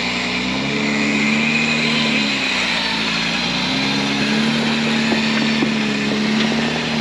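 Off-road Jeep engine pulling under load while crawling over rock. Its pitch rises about a second in, drops back, then rises again near four seconds and holds. The sound cuts off suddenly at the end.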